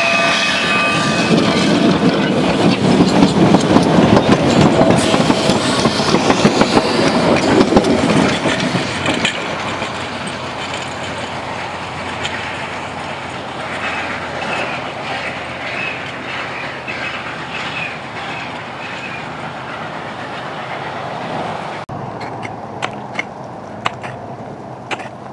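Durango & Silverton steam train with a snowplow and flanger car passing: a loud rumble and wheel clatter over the rails that fades after about eight seconds. Near the end it gives way suddenly to quieter scattered clicks.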